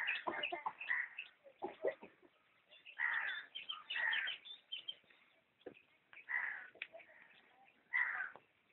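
Birds calling: short, harsh calls about half a second long, repeating irregularly every second or two.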